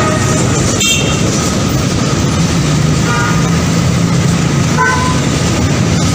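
Train running along the track: a steady, loud rolling noise, with a sharp click about a second in.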